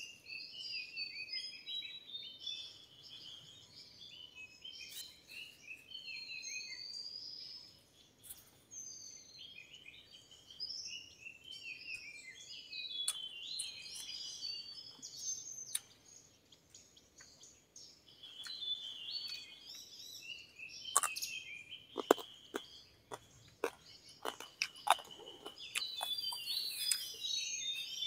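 Forest birds calling: many quick overlapping chirps, trills and whistled phrases, with a few brief lulls. In the last third, a run of sharp close clicks and rustles.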